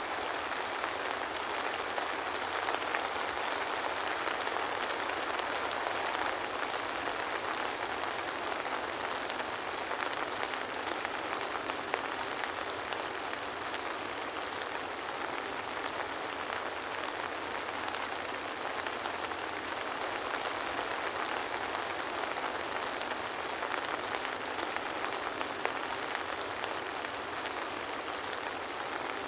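Steady soft rain without thunder, a constant patter of drops.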